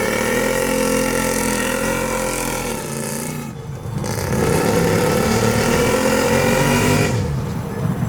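Stock UTV engine revving hard in two long pushes, each rising and then falling in pitch, with a broad hiss over the engine.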